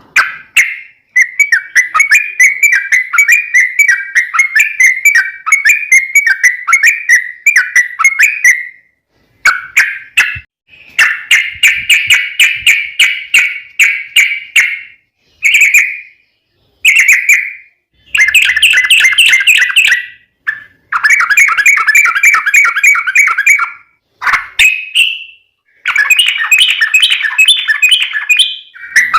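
Yellow-vented bulbul (trucukan) singing loud, long, rapid phrases of bubbling, chattering notes, each run lasting a few seconds with brief pauses between them.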